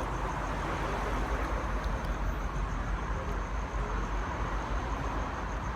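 Steady outdoor street noise with a low rumble, typical of road traffic passing nearby.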